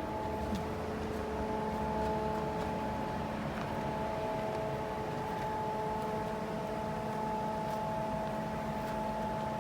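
Steady cabin noise inside a moving BMW X5: a low, even road and tyre rumble with a faint steady hum.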